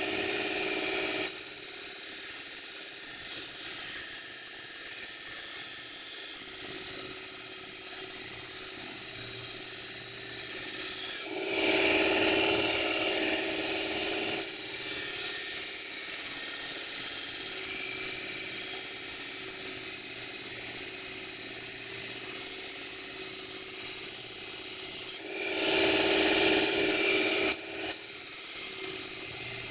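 Mini electric knife sharpener running, its abrasive wheel grinding along the steel blade of a kitchen knife with a steady rasp over a faint motor hum. It grows louder for two stretches of a few seconds each, about eleven seconds in and again near the end.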